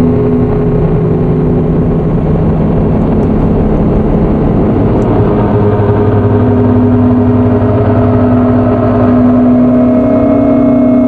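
Handmade three-oscillator analog drone synth (METSÄÄN Dirty Drone #21) playing a loud, dense drone of several held low tones through its resonant low-pass filter. About two seconds in the tones blur into a noisier wash, then settle into steadier pitches, with a higher tone joining in the second half.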